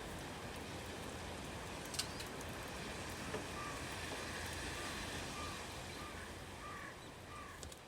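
Steady rain with a few sharp drips, while a bird calls a run of about seven short, slightly falling notes in the second half. It all fades away near the end.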